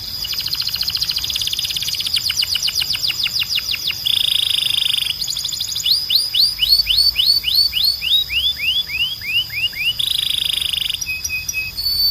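Domestic canary singing a long, varied song. It opens with a rapid repeated-note trill, gives a buzzy rattle about four seconds in, then a run of sweeping down-slurred notes that slow toward ten seconds, and ends with short rattling phrases. A steady high tone runs underneath.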